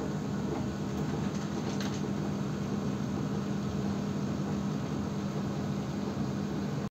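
Steady mechanical hum with a low, even tone over a noisy whir, cutting off abruptly at the end.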